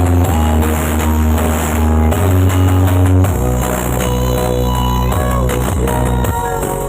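Loud music played through a large horeg street sound system during a sound check. Heavy, sustained bass notes change pitch about two and three seconds in, with melody lines over them.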